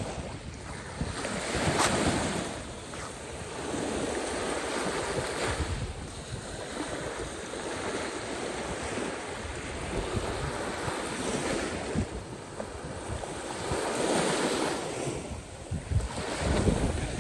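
Caspian Sea waves breaking and washing in, surging and ebbing every few seconds, with wind buffeting the microphone.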